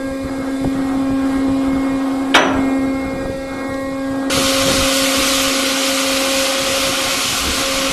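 Ship's deck machinery at the anchor windlass humming steadily, with one sharp metallic clank about two seconds in. About four seconds in, a loud steady hiss starts abruptly and keeps going.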